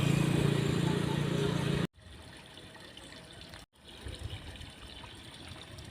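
Motorcycle engine running steadily under wind noise while riding, cut off abruptly about two seconds in. What follows is a much quieter, even hiss, broken once more by a brief silent cut.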